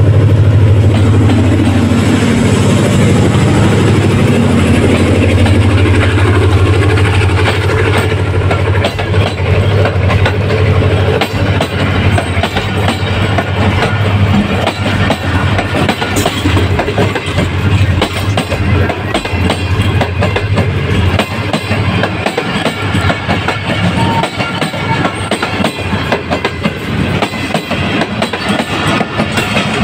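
Diesel locomotive 6311 passing close by, its engine drone strong at first and fading over the first several seconds. Then a long rake of passenger coaches rolls past with a dense, steady clatter of wheels over rail joints.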